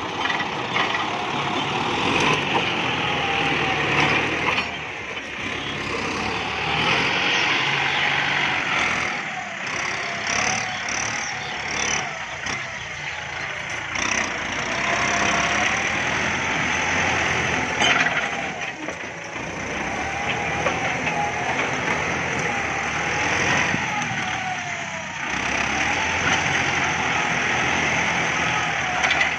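Kubota MU5702 tractor's diesel engine running steadily, with a whine that wavers up and down in pitch.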